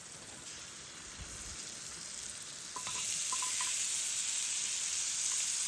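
Food sizzling in a frying pan, a steady hiss that suddenly grows louder about three seconds in.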